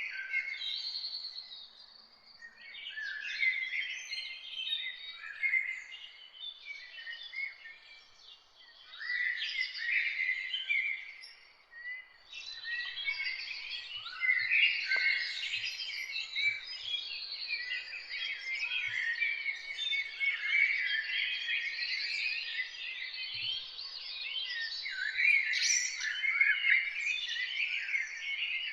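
Several songbirds singing and chirping together in a dense chorus of short, high notes and quick sweeps. There are brief lulls in the first half, and the chorus is steadier from about halfway through.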